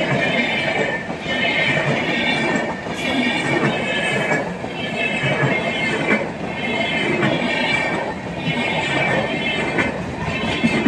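Passenger train coaches passing close by: a steady rumble of steel wheels on the rails, with a high wheel squeal that comes and goes about every second and a half as the coaches roll past.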